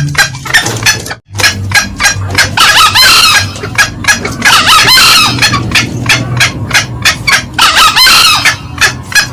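Green junglefowl calls from a loud lure recording: fast repeated cackling notes throughout, with longer crowing calls about two and a half, five and eight seconds in. A brief gap in the sound comes about a second in.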